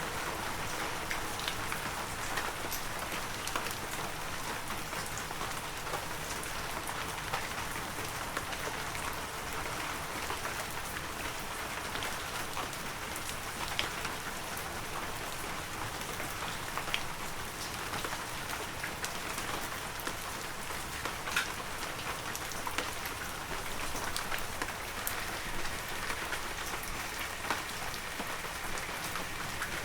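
Heavy rain falling steadily, a dense hiss with many individual drops pattering and ticking sharply on near surfaces.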